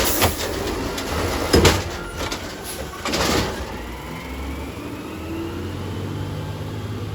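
Garbage truck engine running, with two sharp metallic clanks in the first two seconds and a burst of hissing air about three seconds in.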